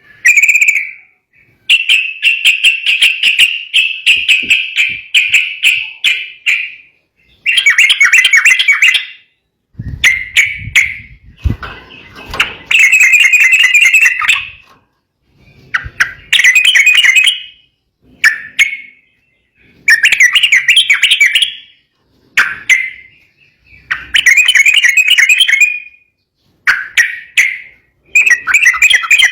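Sooty-headed bulbul (trucukan) singing in loud, agitated bursts of chattering phrases, each a second or two long, with short pauses between them. A few low thuds come about ten seconds in.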